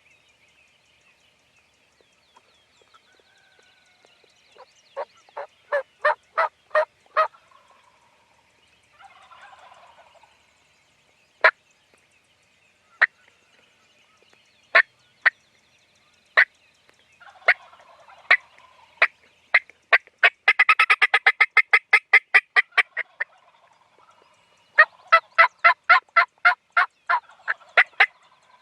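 Wild turkeys calling from the roost: runs of evenly spaced yelps, several single notes, and a fast rattling series about twenty seconds in, typical of a gobble.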